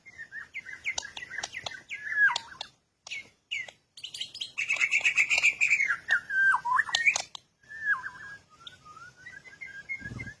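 A songbird singing a varied song of whistled phrases and quick chirps, with a louder, busier stretch in the middle and a run of short rising notes near the end.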